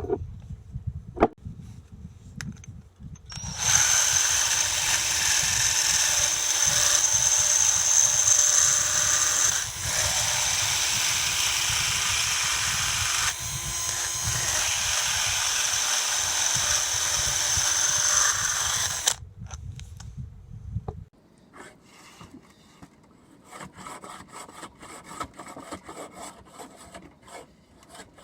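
A handheld power tool working on an oar runs steadily with a high whine for about fifteen seconds, starting a few seconds in, dipping briefly midway. After it stops, quieter scraping or rasping strokes follow.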